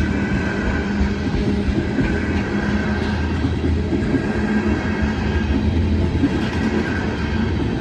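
Tank cars of an oil train rolling steadily past, a continuous noise of steel wheels running on the rails with irregular small clicks.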